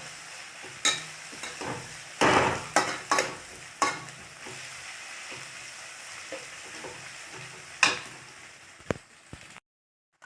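Onions and garlic sizzling in hot mustard oil in a kadhai, stirred with a spoon that scrapes and knocks against the pan several times. The sizzle fades and cuts out near the end.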